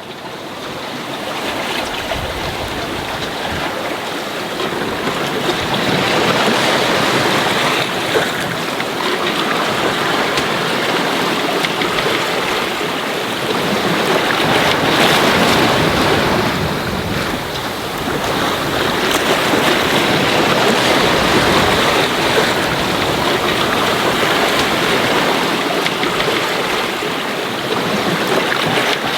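Water rushing and splashing along a sailboat's hull as it runs fast downwind through waves, mixed with wind buffeting the microphone. The rush swells and eases in long surges as the boat rides the swell.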